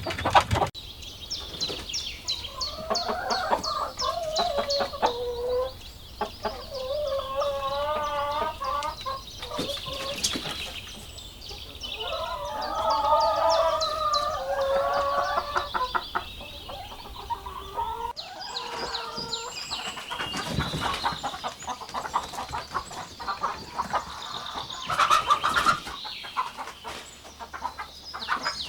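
Chickens clucking, with a rooster crowing three times in the first half: long wavering calls, under a steady run of quick high-pitched chirps.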